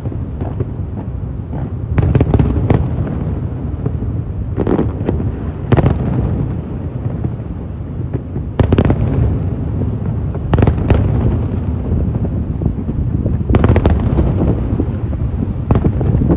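Fireworks display: aerial shells bursting in a string of sharp bangs, some in quick pairs and clusters, over a continuous low rumble of explosions.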